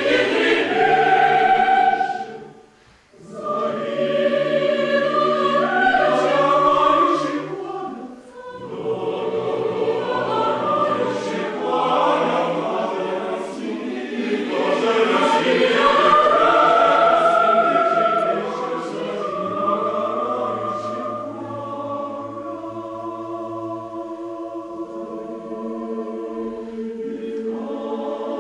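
Choir singing, with a short break about three seconds in and another brief dip about eight seconds in, moving into long held chords over a low bass note in the second half.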